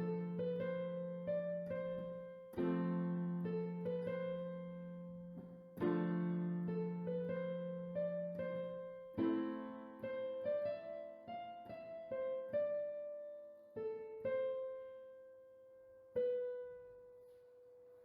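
Solo piano music in slow phrases of chords and single notes, ending on a last note that rings and fades out.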